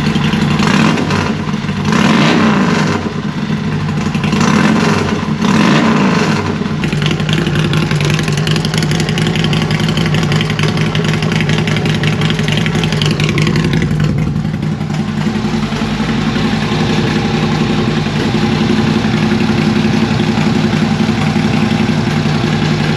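Harley-Davidson Road King's V-twin engine running through a new Ultima 2-into-1 exhaust with no tune yet, blipped several times in the first six seconds and then idling steadily.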